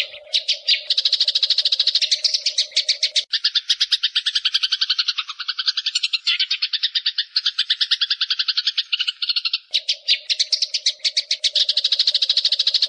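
Eurasian tree sparrows chattering in a fast, unbroken run of chirps, about ten a second, the agitated calls of sparrows fighting. From about three seconds in to near ten seconds a lower, second layer of chirps joins the run.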